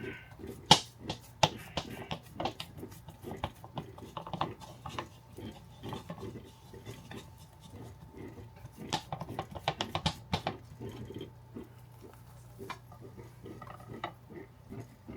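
Kitchen utensils and dishes clicking and knocking irregularly while mini burgers are prepared, over a faint steady hum.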